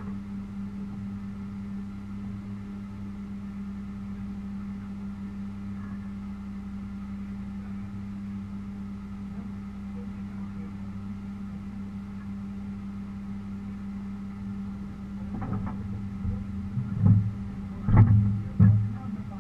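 Car engine idling steadily at an even pitch, with a few short louder bursts near the end, like throttle blips.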